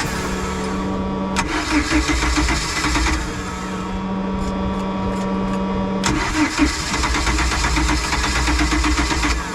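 Boat engine being cranked over by its starter in several long bursts without catching. This is a hard start that the owners can only get running with a bottle of starting aid, and they suspect the fuel pump line.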